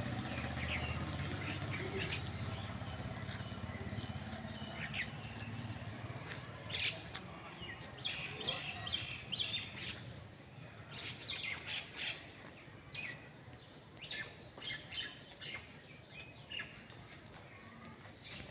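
Birds chirping in short, scattered calls, more of them after about six seconds in. A low vehicle rumble fades out over the first several seconds.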